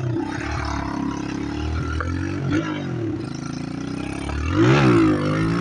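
Chinese pit bike's small single-cylinder engine running under a rider, its revs rising and falling. There is one sharp rev-up and drop about four and a half seconds in, the loudest moment.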